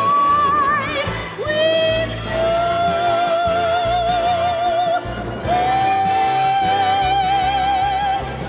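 Orchestral music at the close of a song: a melody of long held notes with vibrato, changing pitch every few seconds over low accompaniment.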